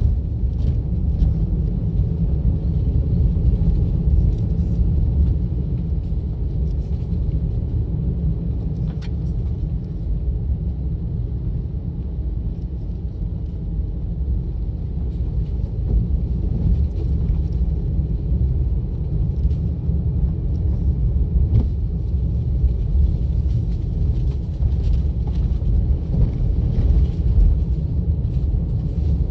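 Steady low rumble of a car on the move: engine and tyre-on-road noise, with no change in pace.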